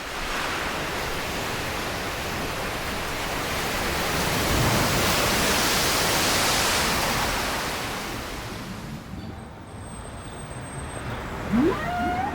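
Ocean surf: a wave swelling to a peak about halfway through and washing away. A short bird call rises near the end.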